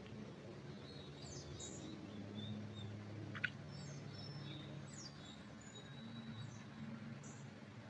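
Birds chirping faintly with scattered short, high calls and whistles, and one sharper, louder chirp about three and a half seconds in, over a faint low steady hum.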